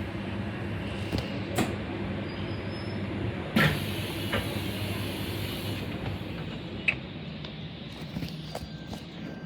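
Electric suburban train standing at the platform with a steady low hum, punctuated by a few sharp clunks. A hiss of air starts with a loud clunk about three and a half seconds in and lasts about two seconds.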